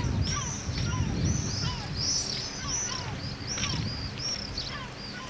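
Birds calling: many short, high, arched chirps in quick succession, with softer falling whistles lower down and a low rumble underneath.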